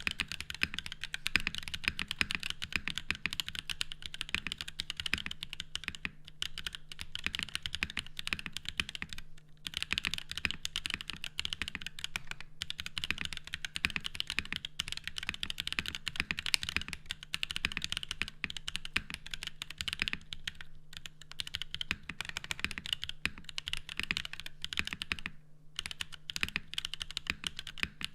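Continuous fast typing on a custom mechanical keyboard with lubed Zykos tactile switches (Zealios bottom housings, 78 g springs, Halo stems, Panda tops) in an FR4 plate, with Novelkeys BOW keycaps. There are brief pauses twice, and a faint steady low hum underneath.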